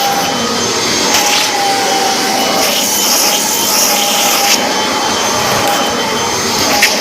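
Vacuum cleaner running steadily: a loud, even rush of air with a motor whine that holds a near-steady pitch, and a few brief surges of higher hiss.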